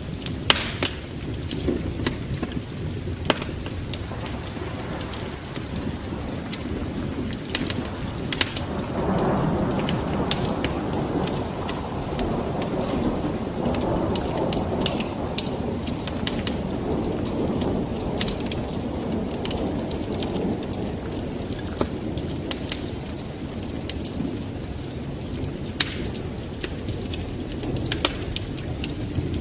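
Wood fire in a fireplace crackling, with frequent sharp pops over a steady hiss. A low rumble swells up about nine seconds in and fades again about twenty seconds in.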